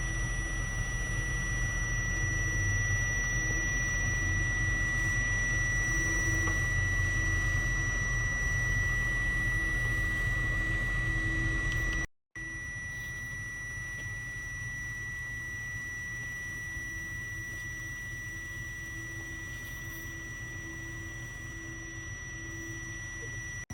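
Turbomeca Marbore II jet engine of a jet dryer truck running steadily: a constant high whine over a low rumble. The sound cuts out completely for a moment about halfway through, then resumes a little quieter.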